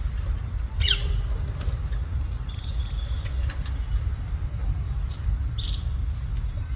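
Ring-necked parakeets giving a few short squawks and chirps: one falling squawk about a second in, a couple of chirps near the middle and two brief calls a little after five seconds. A steady low rumble runs underneath.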